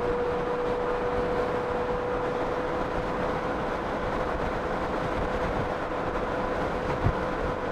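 Honda Gold Wing motorcycle riding slowly, with wind rushing over the microphone and road noise under a steady whine, and a short thump about seven seconds in.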